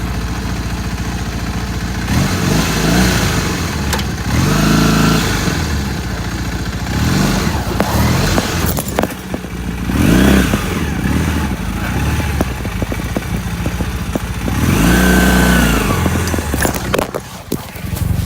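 1985 Honda Nighthawk 450's parallel-twin engine revving up and falling back in about six surges as the motorcycle is ridden over rough ground, with scattered clattering knocks.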